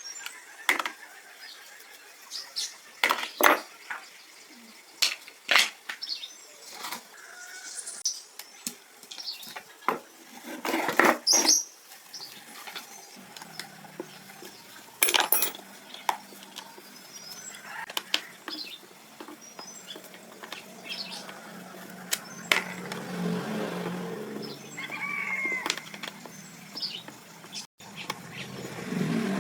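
Irregular sharp clicks and metallic clinks, with a low steady hum coming in about halfway through.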